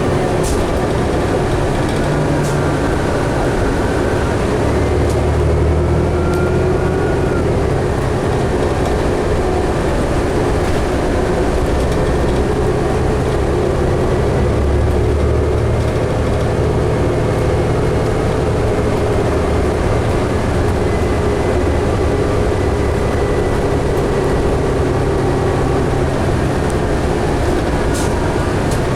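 Cabin sound of a 2011 New Flyer D60LFR articulated diesel bus under way: a steady engine and road rumble, with faint whines that rise and fall a little in pitch.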